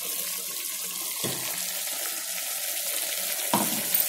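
Chicken frying in an open pressure cooker with a steady sizzling hiss as red masala paste is emptied into it. A steel mixer jar knocks sharply against the cooker rim twice.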